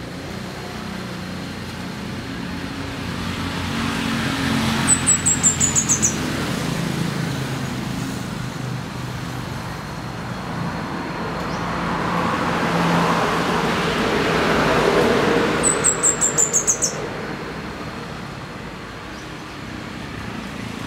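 Orange-bellied flowerpecker singing twice, each song a quick series of about eight very high, thin notes stepping down in pitch. Road traffic passes in the background.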